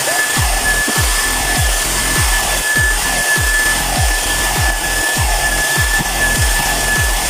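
Handheld hair dryer blowing at its high-speed hot-air setting, a steady rush of air with a constant high whine from the motor.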